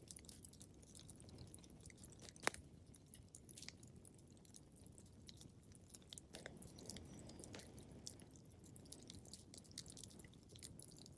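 Fireplace fire crackling, with irregular small pops and one sharp, louder pop about two and a half seconds in, over a low steady rumble.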